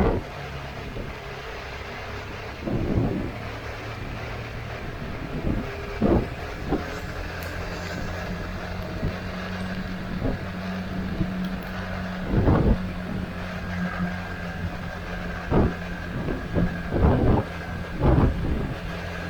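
Motorcycle engine running steadily at low speed, picked up by the riding camera. Short, loud thumps cut in every few seconds, coming closer together near the end.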